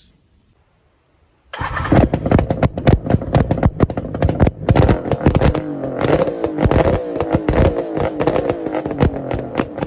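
Suzuki GT750 two-stroke three-cylinder motorcycle engine bursting into life about a second and a half in. It keeps running loudly with rapid firing pulses, its pitch rising and falling as the throttle is blipped.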